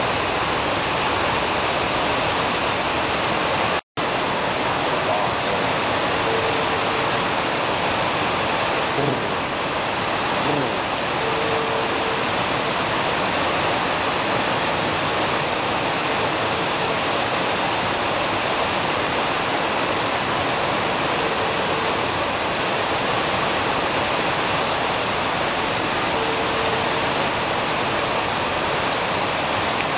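Heavy rain falling steadily, a dense even hiss of downpour. The sound cuts out for a split second about four seconds in, then carries on unchanged.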